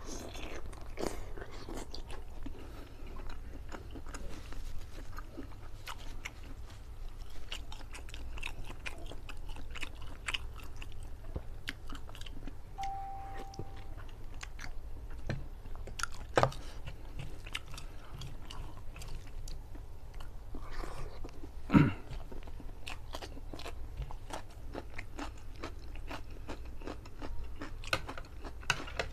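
Close-miked chewing and biting of curry chicken eaten by hand, with many wet mouth clicks and smacks. Two sharper knocks stand out, about 16 and 22 seconds in, the second the loudest.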